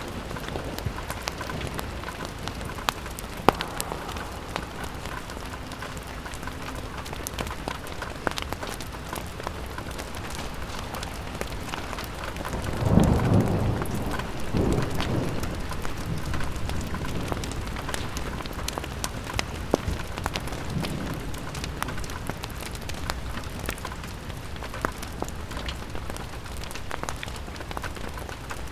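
Rain falling on a window pane: a steady hiss with scattered sharp drops and crackles from a fireplace. A low rumble swells up about halfway through, then fades.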